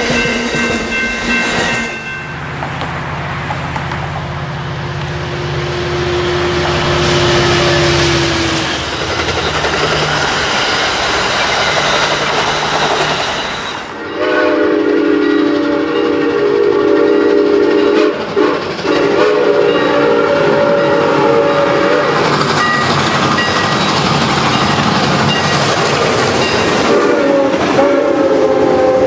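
A train going by, its wheels clattering on the rails, with a horn sounding: a short blast at the start, one long held blast of several seconds from about halfway, and more near the end.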